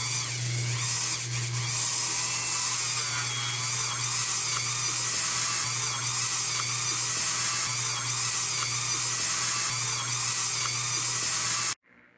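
Small high-speed rotary tool running steadily, its motor hum under a bright hiss, as it polishes a lantern's wire globe guard with an 800-grit abrasive. It cuts off suddenly near the end.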